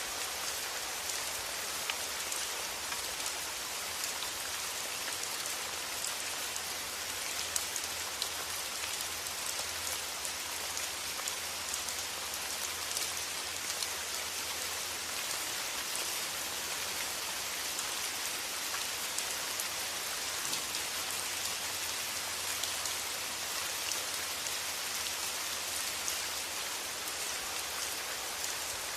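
Steady rain falling, an even hiss with the patter of individual drops striking a surface.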